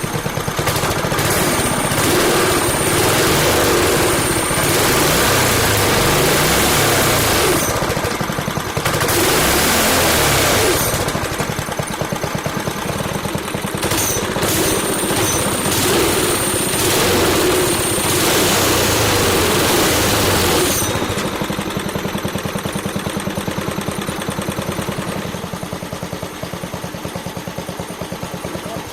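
Small gas engine on a home-built go-kart running with a rapid pulse and revving up and down several times. About two-thirds of the way through it drops to a lower, steadier idle.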